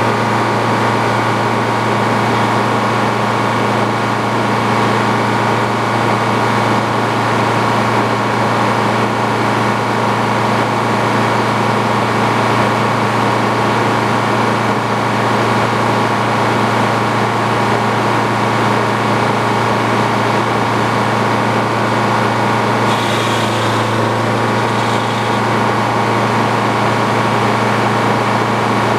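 Engine driving a sawmill running steadily with a constant low hum and no changes in speed. A brief higher hiss comes in about three-quarters of the way through.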